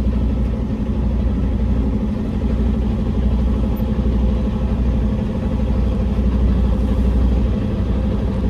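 Semi truck's diesel engine running steadily at low revs while the rig is slowly maneuvered.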